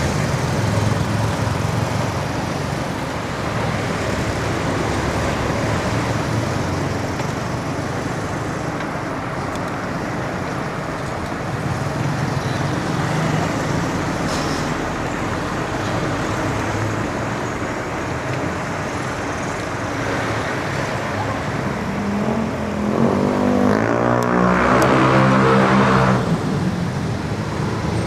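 Steady road traffic noise from vehicles running past a bicycle on a city road. About four-fifths of the way in, a louder engine passes close for a few seconds, its pitch shifting.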